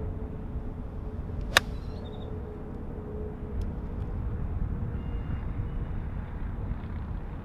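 A golf ball struck once with a pitching wedge: a single sharp crisp click about one and a half seconds in, over a steady low rumble.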